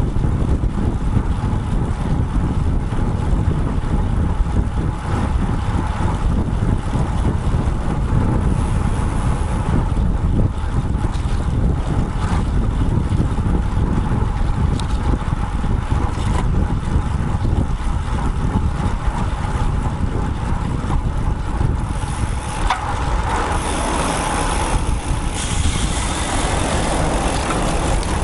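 Wind rushing over the microphone of a bike-mounted action camera while riding a road bike, a steady low rumble of wind and road noise. Near the end a louder hiss joins in.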